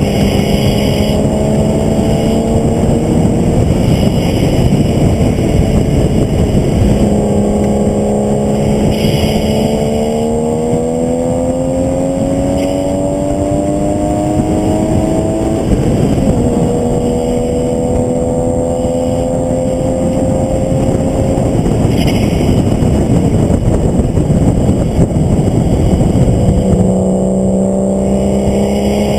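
A vehicle's engine at racing speed on a track, its note climbing under acceleration, dropping sharply at a gearshift about halfway through, fading for a few seconds off the throttle, then climbing again near the end. Heavy wind and road noise run underneath.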